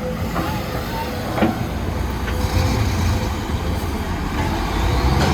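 Heavy construction machinery engine running steadily, with a few sharp clanks.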